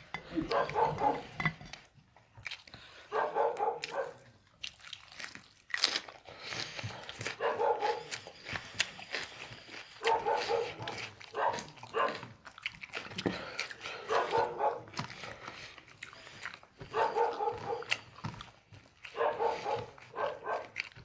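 A dog vocalizing repeatedly in drawn-out barks, about eight in all, a few seconds apart, with faint clicking noises in between.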